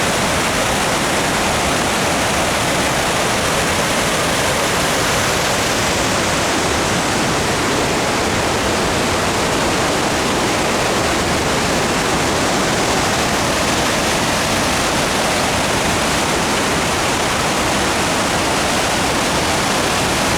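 Waterfall in flood: high water pouring over a river falls, a loud, steady rush.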